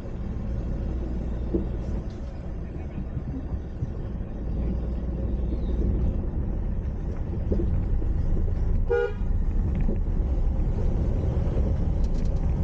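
Steady low road and engine rumble of a car driving, with one short vehicle horn toot about nine seconds in.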